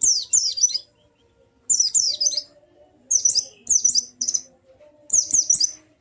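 A white-eye (pleci) in full 'gacor' song: short bursts of rapid, high, falling chirps, a few notes to each burst, repeated about every second.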